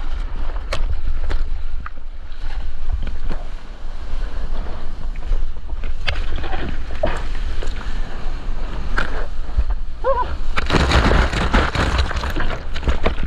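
Ocean water rushing and splashing around a surfer, with wind buffeting an action camera's microphone as a steady low rumble. A short, pitched, voice-like call comes about ten seconds in, followed by a louder burst of splashing and rushing water.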